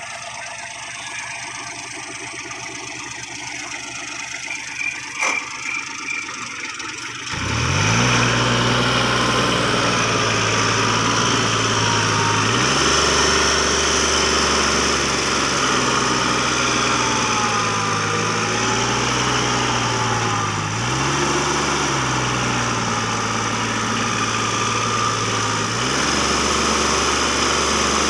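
Heavy diesel engine of a tractor or bulldozer running low for several seconds, then about seven seconds in it is throttled up sharply, its pitch rising and holding at higher revs, dipping and rising again a few times after.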